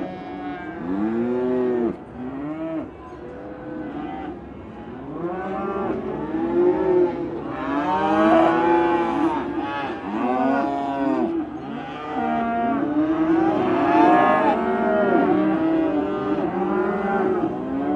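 Many cattle in a stockyard mooing at once, overlapping calls of different pitches rising and falling, with no pause.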